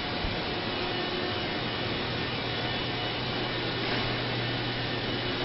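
Steady mechanical whirring hum with a low humming tone that comes in about two seconds in.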